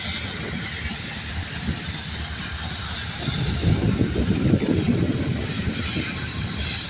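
Farm tractor engine running in the field, a steady rumble with a hiss on top that gets a little louder about three seconds in.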